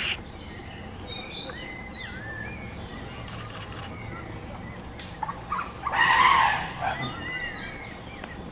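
Birds chirping over a steady low background rumble, with a loud, harsh noise burst under a second long about six seconds in.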